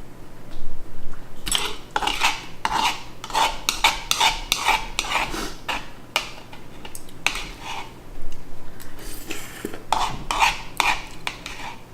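Eating utensil scraping, rubbing and clinking against a dish of rice noodle stir fry, in irregular quick strokes and clusters.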